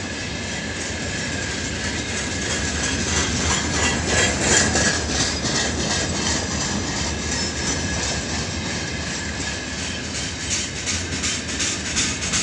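Freight train of gondola wagons rolling past close by, the wheels clacking over the rail joints in quick groups, loudest about four seconds in and again near the end. A faint thin high tone runs under the rolling noise and fades about halfway.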